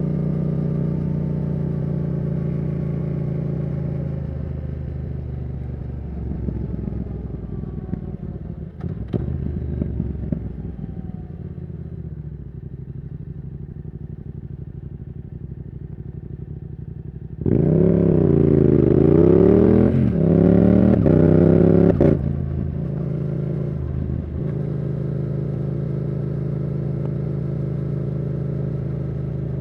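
Yamaha R7's 689 cc CP2 parallel-twin engine through a Yoshimura R77 exhaust. It cruises steadily, then slows with falling pitch and a few clicks. About two-thirds through it opens up hard, rising and dropping in pitch through several quick upshifts for about four seconds, then settles back to steady cruising.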